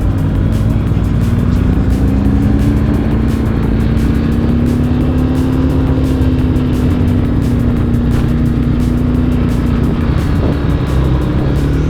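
BMW R 1250 GS boxer-twin engine running at a steady cruise through an Akrapovič exhaust, its note rising slightly and holding, then easing off about ten seconds in before starting to climb again near the end.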